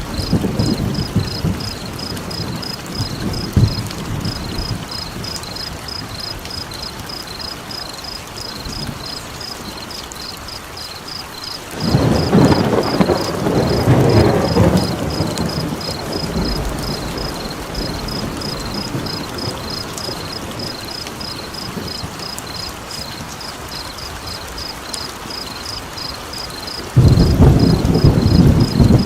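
Steady rain with rolls of thunder, one about halfway through and another starting near the end. A steady train of high chirps, about three a second, runs over it.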